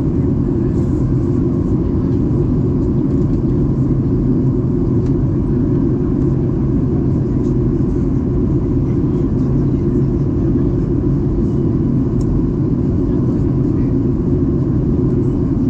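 Steady cabin rumble of a Boeing 737-800 airliner: engine and airflow noise, deep and unchanging, with a faint steady hum on top.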